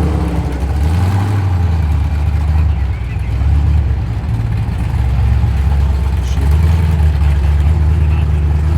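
1955 Chevrolet Bel Air's engine rumbling deep and loud as the car rolls past slowly, its pitch rising and falling a few times with the throttle.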